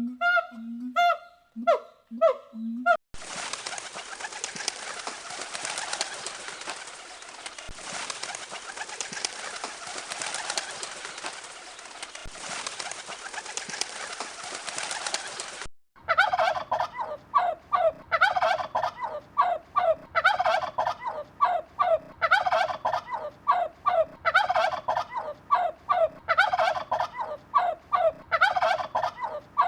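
A run of bird calls in three parts: first short, evenly repeated pitched calls; then a dense, steady chatter of many birds; then, from about halfway, rapid runs of repeated higher calls.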